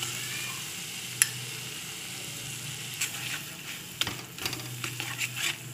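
Tomato-onion masala with cashew paste frying and sizzling in a kadai, with a single sharp click about a second in. From about three seconds in, a metal spatula scrapes and clicks against the pan as the paste is stirred in.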